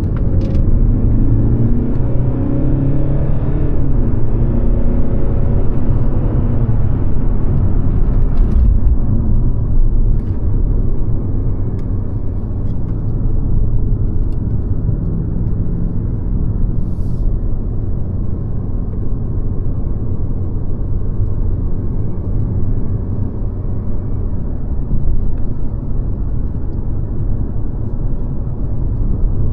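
Mercedes-Benz C-Class W206 driving, with a steady low rumble of engine and road noise. Over the first several seconds the engine note rises and falls.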